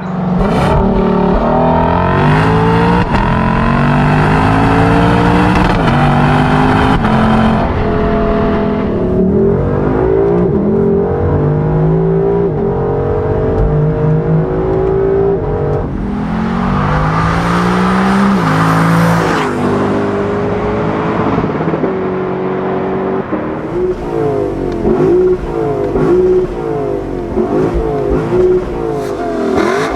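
Lexus LC 500's 5.0-litre V8 accelerating hard through the gears of its 10-speed automatic. The pitch climbs and drops back at each upshift, in two long pulls. Near the end come short, quick rises and falls in revs.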